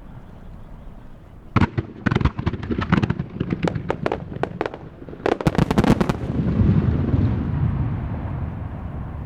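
Starmine fireworks display: a rapid run of sharp shell bursts for about three seconds, a brief lull, then a second dense volley of bangs around five to six seconds in, followed by a low rolling rumble.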